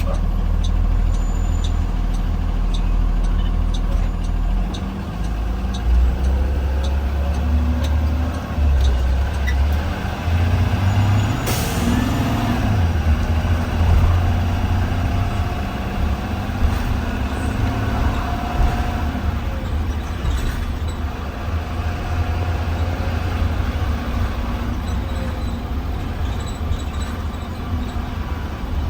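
2020 Blue Bird Vision school bus under way, its engine running steadily with a change in engine note about five seconds in, heard from inside the bus. A short hiss of air cuts in about eleven seconds in.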